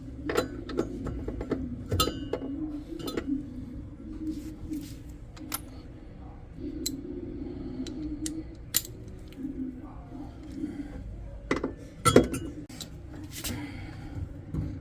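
Irregular metallic clinks and knocks of hand tools and parts being handled, with the loudest knock about twelve seconds in.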